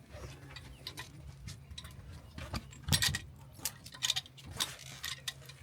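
Irregular clicks, taps and knocks of fishing gear being handled on the boat, the loudest about three seconds in, over a steady low hum.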